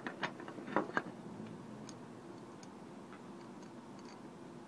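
Light metallic clicks of small pump-motor parts being handled, a few sharp ones in the first second, then only faint scattered ticks.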